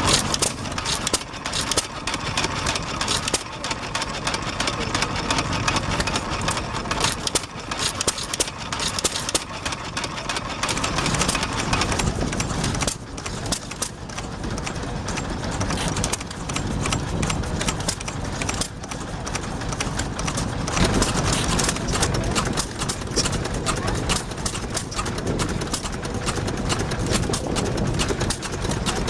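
Vintage stationary engines running, with a quick, uneven knocking exhaust beat over a low rumble.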